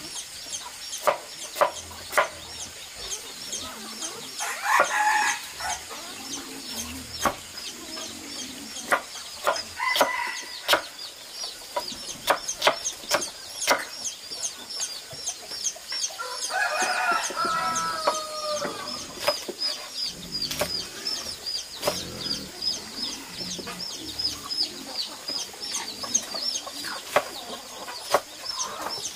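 Chickens clucking, with a longer rooster-like call about 17 seconds in, over constant high chirping and many sharp ticks.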